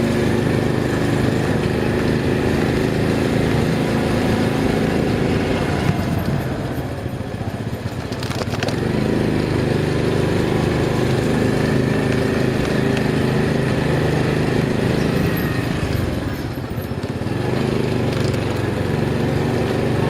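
Motorcycle engine running steadily while riding, easing off twice before picking up again.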